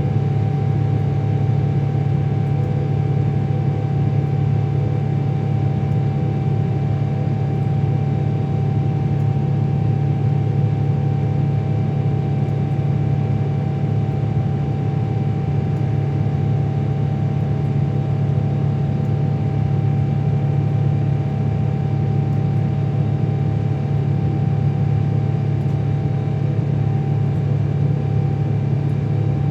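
Jet engines of a Boeing 777-300ER (GE90s) running steadily: a loud deep rumble with a constant whine above it and no rise or fall in level.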